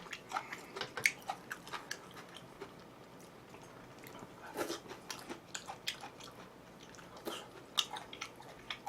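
A person chewing food close to the microphone: irregular wet smacks and small clicks of the mouth, a few louder ones scattered through.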